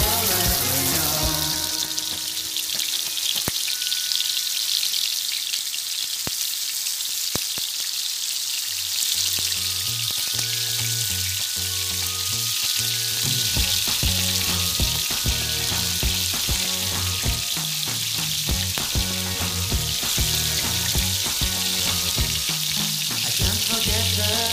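Minced-meat chapli kabab patties shallow-frying in oil on a flat pan, a steady sizzle and spatter of hot fat. Background music with a beat plays under it, stronger from about nine seconds in.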